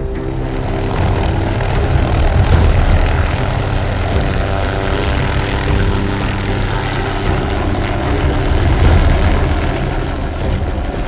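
Helicopter engine and rotor running steadily, swelling louder twice.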